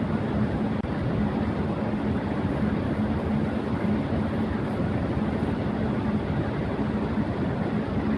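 Electric fan running at high speed: a steady rush of air with a constant low hum under it.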